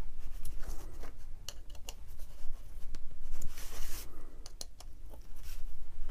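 Light clicks, taps and scratchy scraping of hand tools working small metal parts as a vintage AEG BH25 rotary hammer is reassembled by hand.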